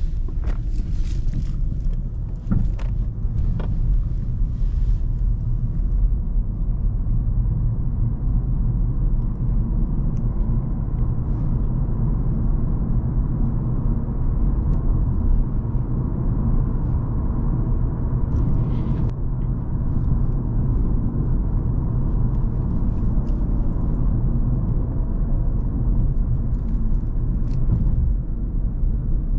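Cadillac CTS with a twin-turbo 3.6-litre V6 driving at a steady pace: a low, even engine and road rumble with no revving. A few sharp clicks and ticks come in the first few seconds, and one more about two-thirds of the way through.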